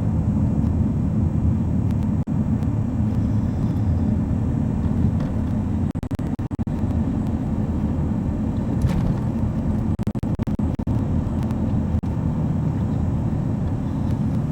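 Steady low rumble of a vehicle on the move, engine and road noise heard from inside the cab.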